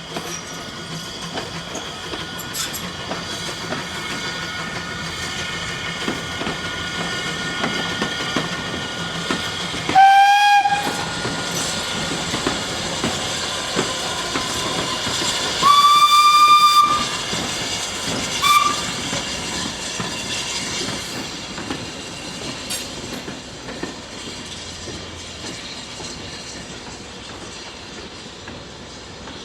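Steam locomotive running with its train, wheels clicking over the rail joints, and sounding its whistle three times: a short blast about ten seconds in, a longer, higher blast about six seconds later, and a brief toot soon after.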